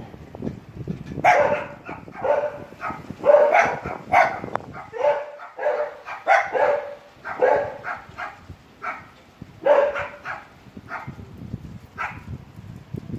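A dog barking repeatedly, roughly once a second, over low wind noise.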